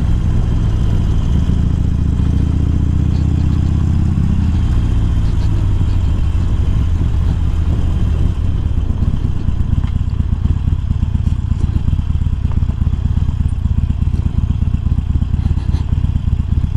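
Harley-Davidson Sportster Iron's V-twin, fitted with a 1200 upgrade kit and Screamin' Eagle slip-on mufflers, running under way; its note drops about four seconds in as the throttle is rolled off, and in the second half it settles into an uneven, lumpy beat as the bike slows to a stop.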